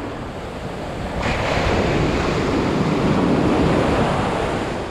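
Ocean surf breaking and washing up the beach, with wind buffeting the microphone. A wave crashes about a second in and its wash runs on for several seconds before easing.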